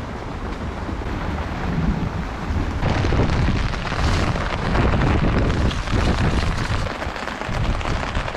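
Heavy rain with gusting wind, the wind rumbling on the microphone. A stronger gust swells from about three seconds in and eases off again near seven seconds.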